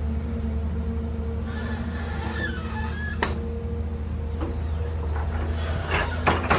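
Heavy excavator's diesel engine running steadily, with a sharp metallic clank about three seconds in and a cluster of clanks near the end.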